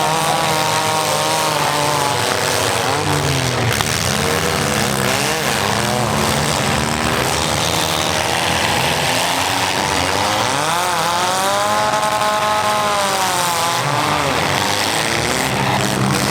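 Several compact-car engines revving hard in a demolition derby heat. Their pitch keeps rising and falling and overlapping as the cars accelerate, brake and reverse into one another.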